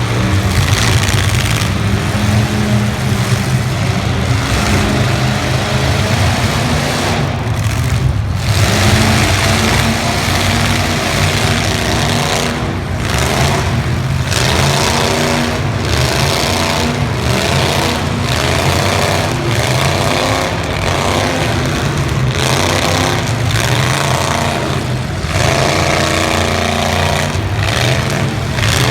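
Demolition derby cars' engines revving up and down again and again, loud and continuous, with several engines overlapping.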